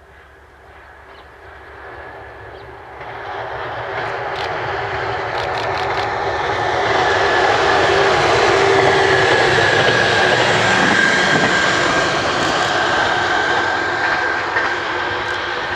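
Diesel railcar passing close by. Its engine and wheels on the rails grow steadily louder as it approaches, stay loud through the middle with a steady whine, then ease off a little near the end as it goes away.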